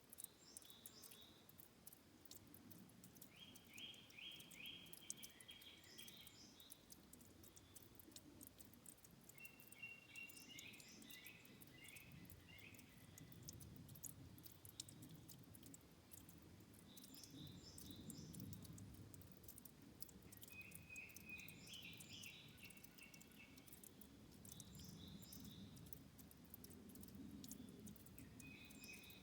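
Faint trickling and dripping water at a stream's source, with a small songbird singing a short, rapid trilled phrase about every five to seven seconds.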